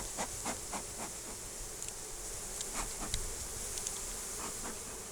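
A crowded honeybee colony buzzing steadily in an opened hive, the bees stirred up and not too happy at being disturbed. A run of light clicks comes in the first second, with a few scattered ones later.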